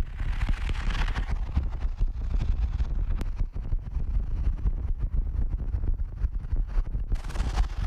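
Storm wind buffeting the microphone: a constant, unsteady low rumble, with a rushing hiss in about the first second and again near the end.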